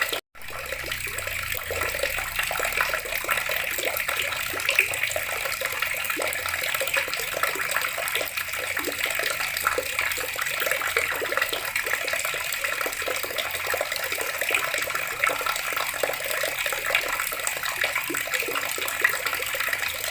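Water running steadily from a tap: a continuous splashing hiss, cut off for a split second just after the start.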